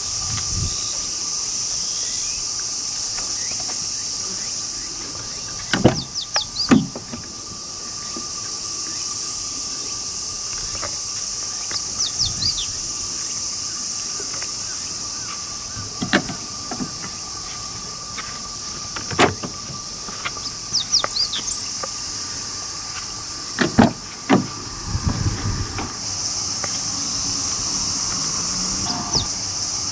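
Insects chirring steadily, with a few short bird chirps and several sharp knocks about six, sixteen, nineteen and twenty-four seconds in.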